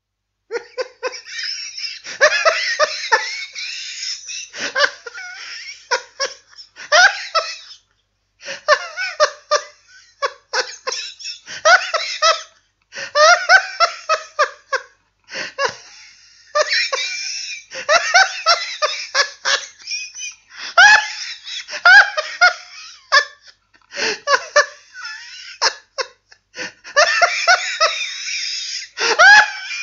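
Hearty, high-pitched laughter, in long bouts of rapid breathy peals broken by short pauses.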